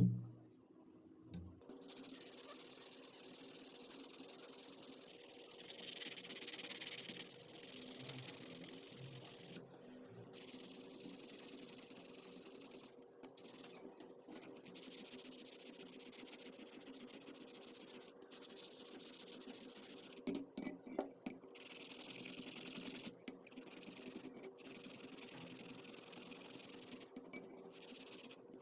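Abrasive scraping hiss of rust-removal work on metal, stopping and starting many times, over a steady low hum.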